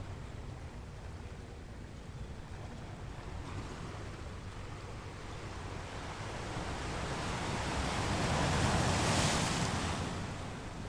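Ocean surf on a beach: the wash of the sea swells gradually to a wave breaking and rushing in near the end, then eases back.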